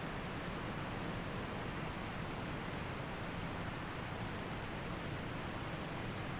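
Waterfall: steady rushing of falling water, an even roar with no change.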